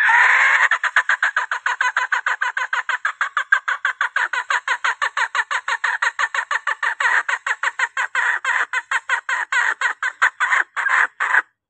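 Junglefowl hen's rapid clucking call, about five or six clucks a second, spacing out slightly near the end and cutting off suddenly: the hen's call used as a lure to draw in cock birds.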